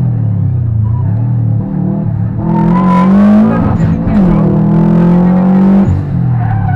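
Subaru Impreza rally car's flat-four engine, heard from inside the cabin at full effort. The revs climb about two and a half seconds in, break briefly near four seconds as it changes gear, hold high, then drop sharply about six seconds in.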